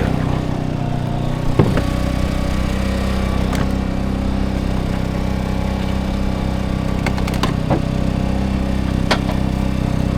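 A portable generator's engine running at a steady drone, with a few short knocks and clunks of gear being handled.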